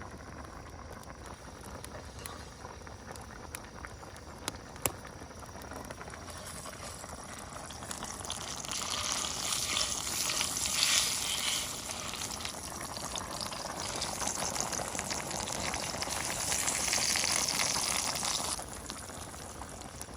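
Tomato paste sizzling as it fries in a pot lid used as a frying pan over a fire. It starts faint with a few sharp ticks, grows loud about eight seconds in, and cuts off suddenly shortly before the end.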